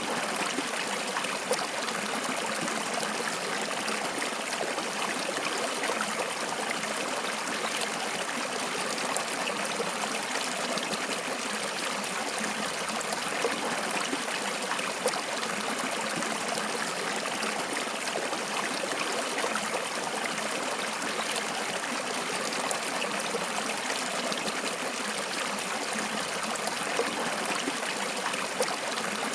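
Water flowing steadily in a stream, a continuous rushing and trickling with a few brief splashes.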